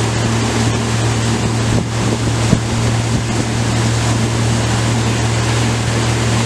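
Motorboat engine running at a steady pitch under load while towing a kneeboarder, with water rushing past the hull and wind noise on the microphone.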